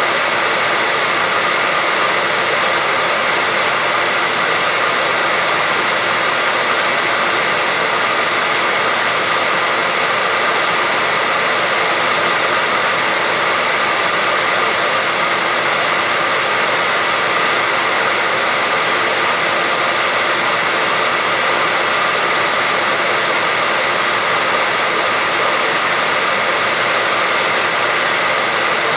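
Electric hair dryer running steadily, an even rushing whoosh of air with a faint motor whine. It is played unbroken as white noise to soothe a baby.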